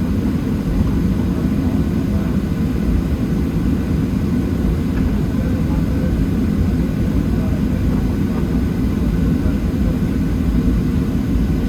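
Cabin noise inside a Boeing 737-700: the CFM56-7B engines and airframe make a steady low rumble at constant power, neither spooling up nor winding down.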